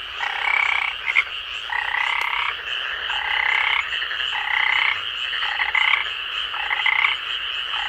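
A frog croaking over and over, about eight croaks roughly one a second, over a steady high drone.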